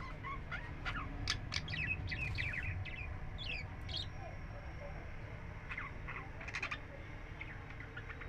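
Budgerigars chirping in quick, sharp calls, busiest in the first few seconds and again in a short burst about two-thirds through, over a low steady rumble.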